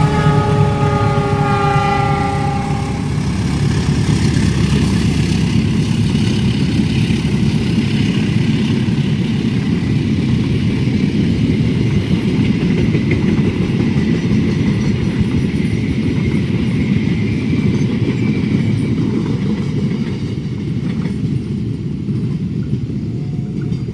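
Train horn sounding a chord of steady tones, cutting off about three seconds in, followed by the steady rumble of a long train passing at speed, easing slightly near the end.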